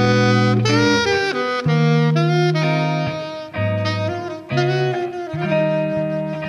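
Saxophone playing a melody of short, changing notes over a held low accompaniment.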